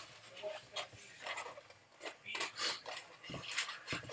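Latex modelling balloon being handled and twisted, giving a string of short, irregular rubbery squeaks.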